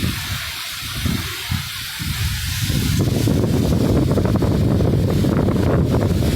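Steady hiss of falling rain, with wind buffeting the microphone in low gusts that become a continuous rumble about three seconds in.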